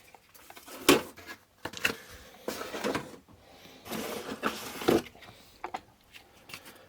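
Cardboard and plastic packaging being handled as a box is opened and parts are taken out: a series of short knocks and rustles.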